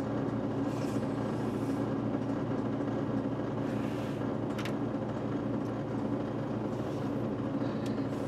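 A steady low mechanical hum, like an engine or motor running, with a few faint soft rustles and a sharp click about four and a half seconds in as a carton of heavy whipping cream is worked open.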